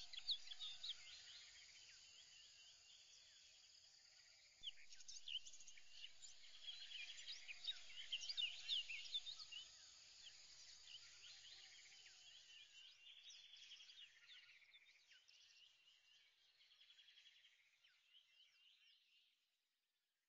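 Faint chorus of small birds chirping, many short overlapping calls, busiest in the middle and fading out near the end.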